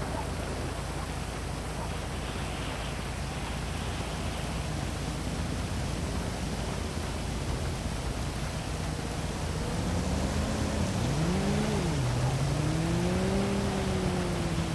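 Heavy rain falling steadily on a city. From about ten seconds in, a passing vehicle's engine is heard, getting louder, its note rising and falling in pitch.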